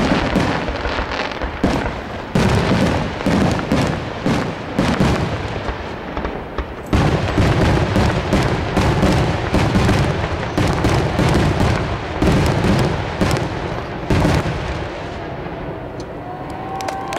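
Aerial fireworks finale: a dense, rapid barrage of shell bursts and booms, with a short lull about six seconds in, thinning out and dying away about fifteen seconds in.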